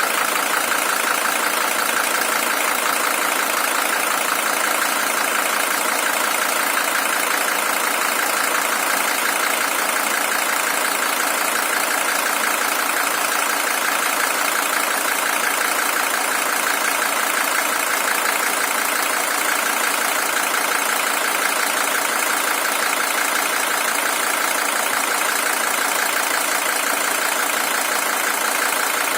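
Mercedes-Benz OM617 five-cylinder diesel engine of a W123 300TD idling steadily with an even diesel clatter. It is the original engine, at 620,000 km.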